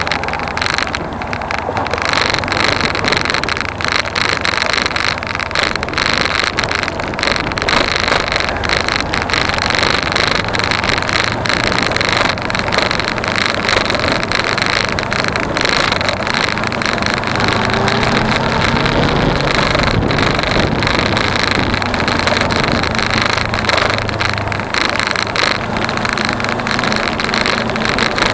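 Wind rushing over an action-camera microphone while riding a Suzuki V-Strom 250 (DL250) motorcycle, with its parallel-twin engine running underneath. The engine note rises and falls with the throttle, standing out more in the second half.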